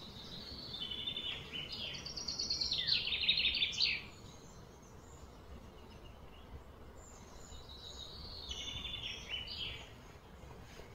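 A songbird singing two phrases of rapid trilled notes that step down in pitch, the second coming about four seconds after the first ends, over a steady outdoor background hiss.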